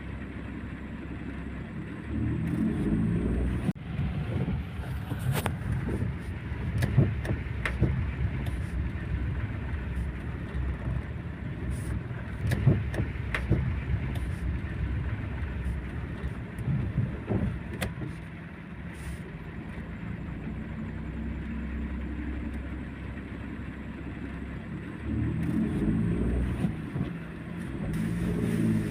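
A motor vehicle engine running while driving, rising in pitch as it speeds up twice, about two seconds in and again near the end, with scattered knocks and rattles.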